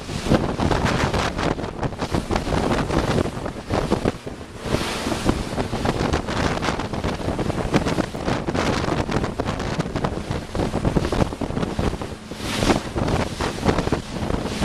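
Strong wind buffeting the microphone, a heavy gusty rumble that eases briefly twice, over water rushing past a boat on choppy water.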